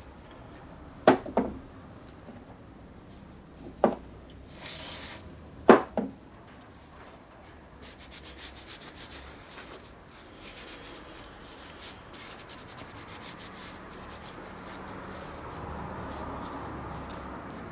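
A few sharp knocks of metal parts being handled and set down, then steady scratchy scrubbing, as rust is sanded or brushed off the lathe's metal parts.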